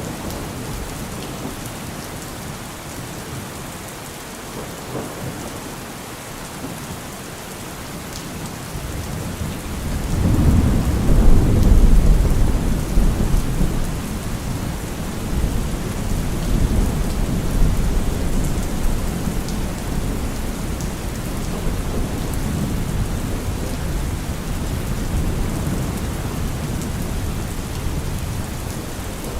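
Heavy rain falling steadily on a car roof, with a long roll of thunder that swells about ten seconds in, is loudest a couple of seconds later, and keeps rumbling as it slowly fades.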